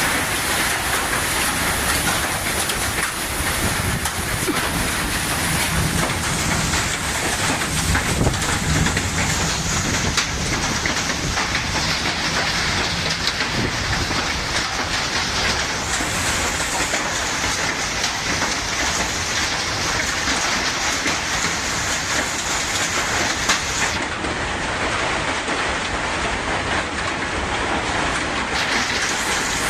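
Heavy storm rain and wind making a steady, dense roar, with a few sharp taps in it. About 24 seconds in, the highest hiss cuts out, then returns near the end.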